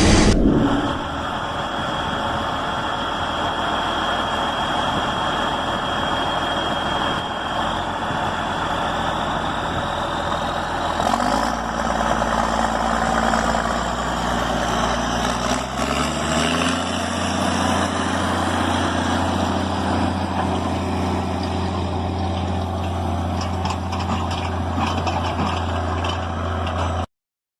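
Tractor diesel engine running steadily. Its pitch climbs about eleven seconds in and again about sixteen seconds in as the revs rise, then holds at the higher speed. The sound cuts off suddenly just before the end.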